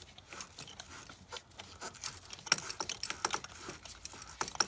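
Wire brush scrubbing a car battery terminal: quick, irregular scratchy strokes, growing busier about halfway through, cleaning the corrosion off until the metal is shiny.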